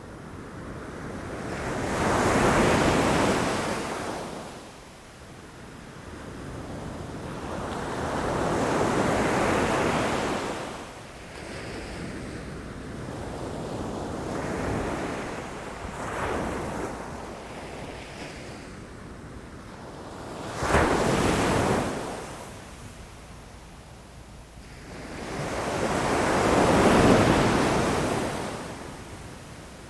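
Ocean waves breaking against rocks, the surf rising and falling in slow surges every five or six seconds. A sharper, sudden crash comes about two-thirds of the way through.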